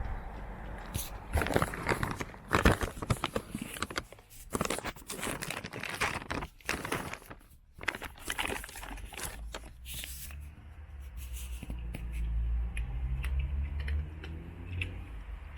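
Cats with their heads inside a food bag, the bag crinkling and rustling in quick, irregular bursts, with crunching of dry food. After about ten seconds the rustling thins out to occasional clicks over a low rumble.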